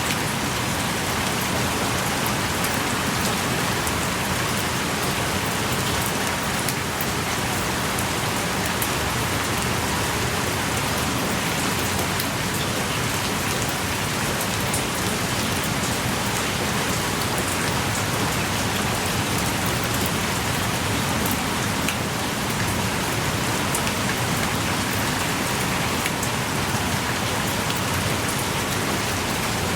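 Heavy rain pouring steadily, a dense hiss of rain with many separate drops striking surfaces close by.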